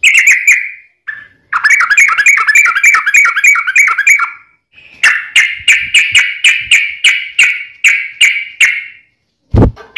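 Yellow-vented bulbul (trucukan) singing its long rapid song: quick runs of repeated chirping notes, about four to five a second, in three bouts with short breaks. A short dull thump comes near the end.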